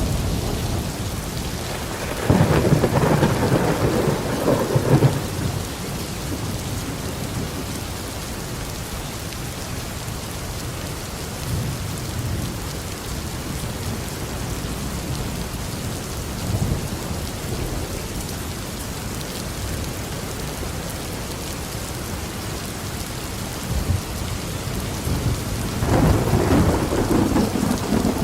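A thunderstorm: steady rain falls throughout, and a roll of thunder starts about two seconds in and rumbles for around three seconds. A second roll begins near the end, with fainter rumbles in between.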